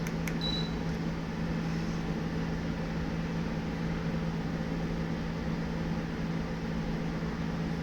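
Steady whir and hum of a running DC-motor ceiling fan and window air conditioner sharing the room, an even airy noise over a constant low tone. A brief click and a short high beep come about half a second in.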